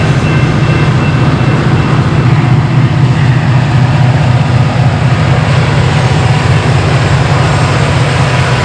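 Freight train rolling past on the rails, with a steady, heavy diesel drone from the two EMD SD40-2W helper locomotives pushing at the rear as they come by.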